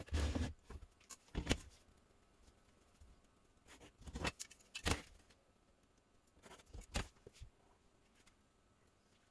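Irregular light knocks, clicks and rustles of handling, in short bursts separated by quiet stretches.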